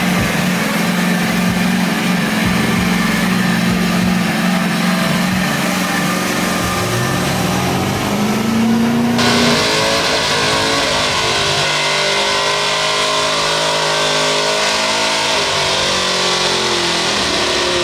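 Large mud-bog truck engine running at a steady pitch, then revving up. About nine seconds in, the sound cuts abruptly to another truck engine revving, its pitch rising and falling.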